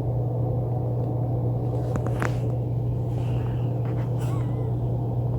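Kitten purring steadily, close to the microphone, a continuous low rumble with a few faint ticks about two seconds in.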